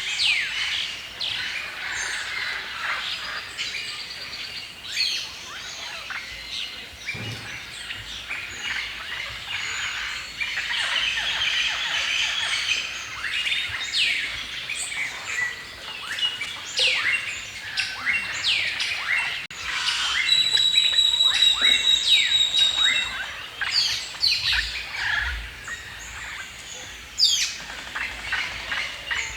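A chorus of many songbirds chirping and singing over one another, full of quick high sweeping notes. From about 20 to 23 seconds one bird repeats a short, steady, high whistled note.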